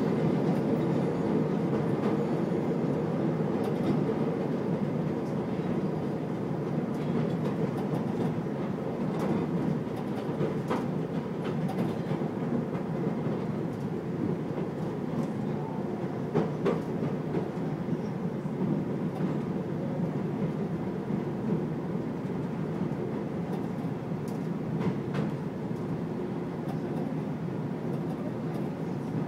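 CTA Brown Line elevated train running on its steel track, heard from inside the car: a steady rumble with occasional sharp clicks of the wheels over the rails.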